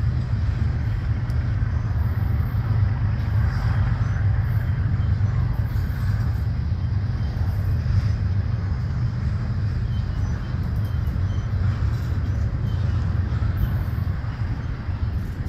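Freight train of double-stack intermodal well cars rolling past: a steady low rumble of steel wheels on the rails, with a lighter rolling hiss above it.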